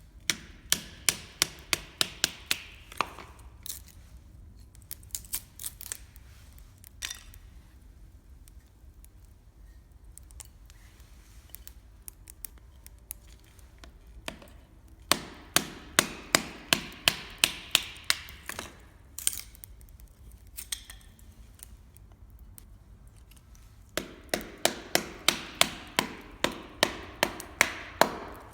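Three runs of quick, sharp knocks, about four a second, with a few single knocks in between: something being struck repeatedly.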